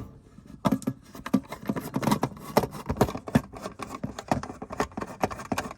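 Irregular clicks, knocks and short scrapes of an electrical wall socket's faceplate being unscrewed with a screwdriver and handled.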